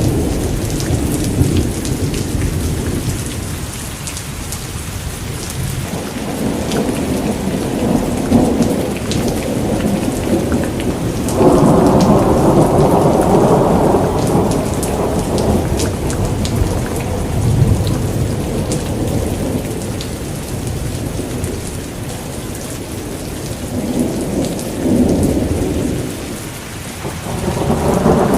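Steady heavy rain pattering on surfaces, with rolling thunder rumbling through it in waves. The loudest roll of thunder comes in about eleven seconds in and lasts a few seconds, and another builds near the end.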